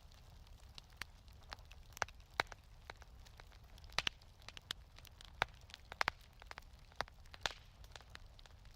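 Wood fire crackling in a fireplace: irregular sharp pops and snaps over a faint low rumble.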